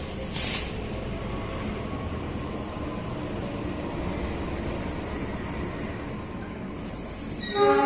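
A train running with a steady rumble, a brief hiss about half a second in, and the train's horn starting to sound near the end.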